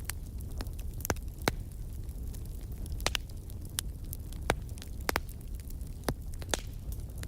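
Wood fire in a fireplace crackling: irregular sharp pops and snaps, the loudest about a second in, at a second and a half, and at about three, four and a half and five seconds, over a steady low rumble of the flames.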